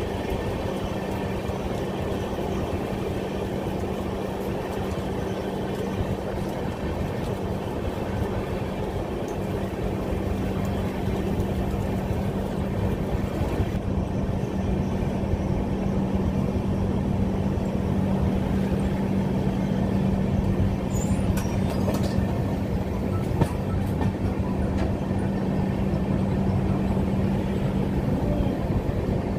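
Passenger train running along the track, heard from on board: a steady rumble and rattle of the coach on the rails with a constant low hum, growing a little louder about a third of the way in.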